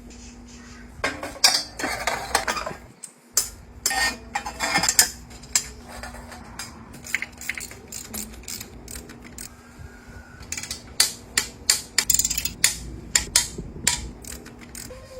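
Metal parts and hand tools clinking and clanking in irregular sharp knocks and clicks, some in quick runs, over a steady low hum.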